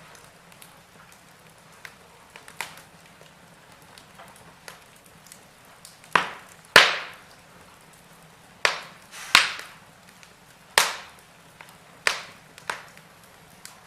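Wood fire crackling in a fireplace: sharp pops and snaps of burning logs over a faint steady hiss. The pops are sparse at first, then come thicker and louder in the second half.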